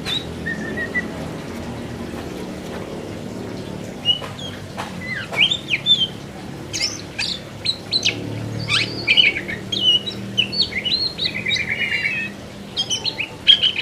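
An oriental magpie-robin (kacer) singing a long, varied song of clear whistles, sharp chirps and fast trills, with few notes at first and a dense run of phrases from about four seconds in.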